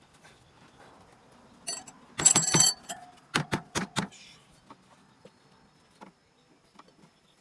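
Metal clattering with a brief ringing, then four sharp knocks in quick succession and a few faint clicks.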